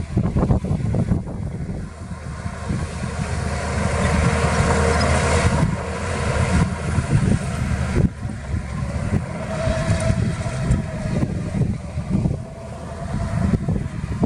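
Heavy diesel earthmoving machinery running with a steady low rumble, with a few sharp knocks and clanks along the way.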